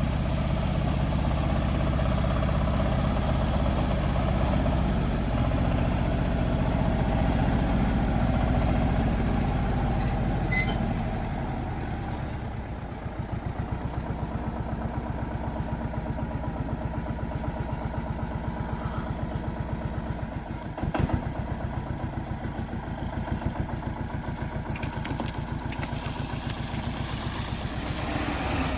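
Backhoe loader's diesel engine running steadily at working revs, then dropping to a pulsing idle about twelve seconds in. A single clank sounds about two-thirds of the way through.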